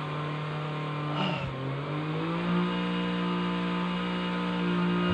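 An engine running with a steady hum, its pitch rising and settling at a higher speed about a second and a half in.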